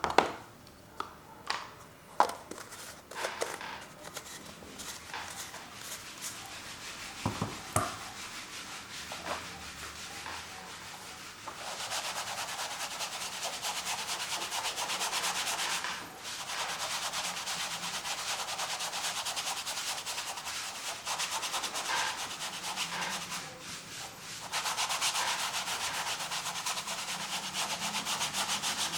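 A few light clicks and knocks of painting tools being handled, then, from about twelve seconds in, steady scrubbing of acrylic paint being rubbed across a canvas, broken by two brief pauses.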